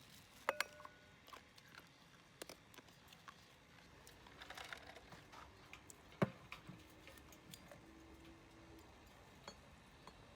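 Scattered light clicks and knocks of tableware and utensils being handled, with a short ringing clink about half a second in and a sharper knock about six seconds in.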